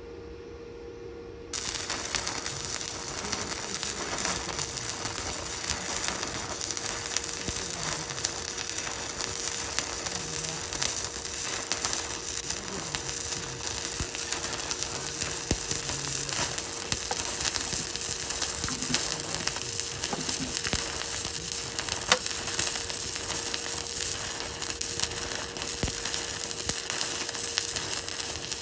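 Stick-welding arc crackling and sizzling steadily, struck about a second and a half in, while a root pass is run on a vertical (3G) test joint. A steady hum runs underneath.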